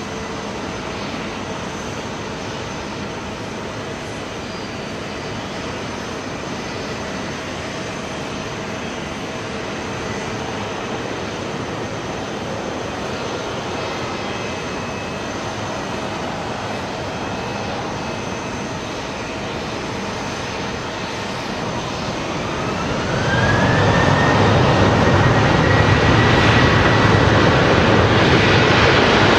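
Jet airliner engines running with a steady roar and whine, then spooling up about three-quarters of the way through: the whine rises in pitch and the roar gets clearly louder and stays loud.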